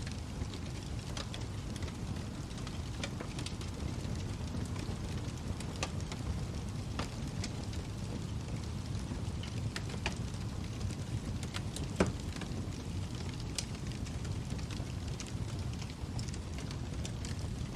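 Wood fire burning in a fireplace: a steady low rumble of flames with scattered crackles and pops, one sharply louder pop about twelve seconds in.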